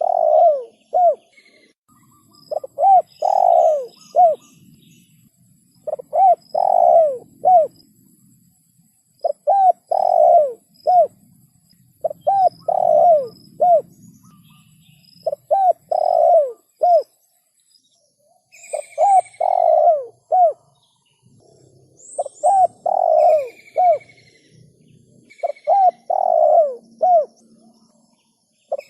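Spotted dove cooing, a short phrase of several coos repeated about every three seconds. Other small birds chirp faintly in the background.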